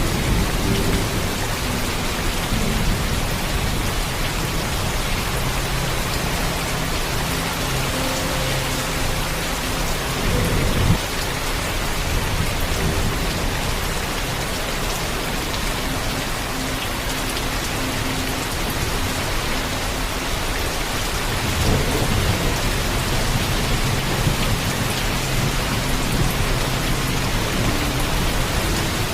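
Heavy steady rainfall with low thunder rumbling under it. A brief sharp rise comes about eleven seconds in, and the rumble swells again a little past twenty seconds.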